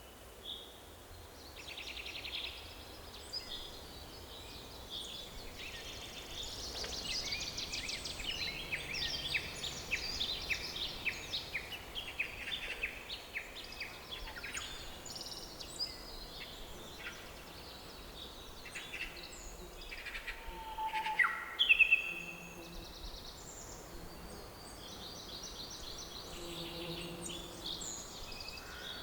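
Several birds in a forest singing and calling: a busy mix of chirps, rapid trills and short whistled notes over a faint steady background hiss, with a few loud, sharp calls about three quarters of the way through.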